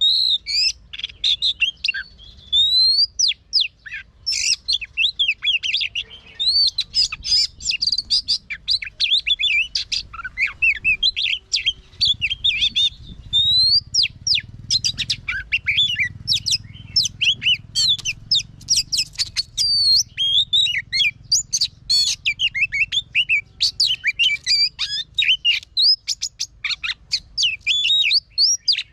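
Oriental magpie-robin singing in its wild-type song: a fast, unbroken run of varied whistled phrases, with quick rising and falling notes mixed with sharp clicking notes.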